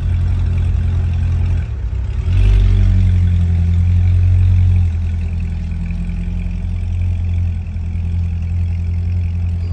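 Chevrolet Corvette C6 Z06's 7.0-litre LS7 V8 running, with a low, steady exhaust note. It gets louder for a couple of seconds about two seconds in, then settles back.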